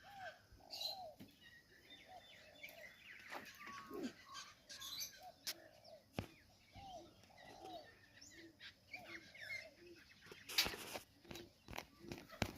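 Faint bird calls: many short, repeated arched calls mixed with higher chirps, with a few sharp clicks or knocks near the middle and towards the end.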